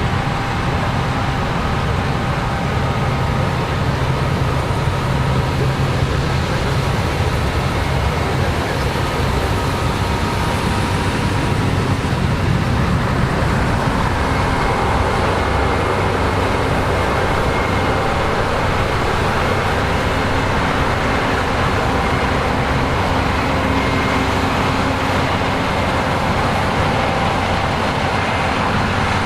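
Diesel engines of a combine harvester and tractors running steadily while harvesting corn: a continuous low drone with a faint high whine over it.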